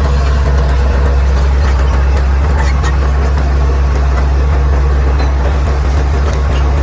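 Bulldozer's diesel engine running steadily with a loud, even low drone.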